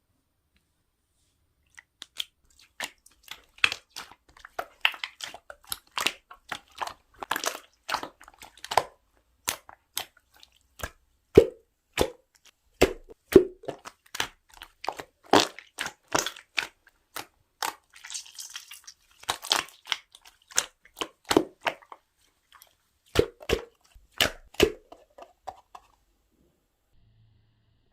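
Slime being squished and pressed by hand: an irregular run of sharp, wet pops and clicks as trapped air bubbles burst, with a brief hissy stretch about two-thirds of the way through.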